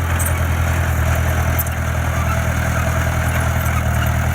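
A heavy construction machine's diesel engine running steadily with an even, low drone. Faint clicks come through now and then.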